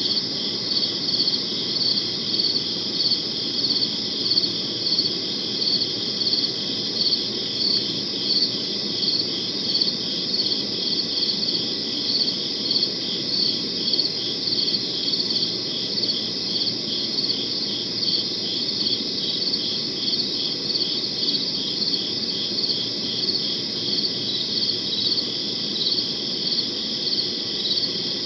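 Crickets chirping steadily at night, a dense rhythmic chorus of high pulsed chirps over a low background hum.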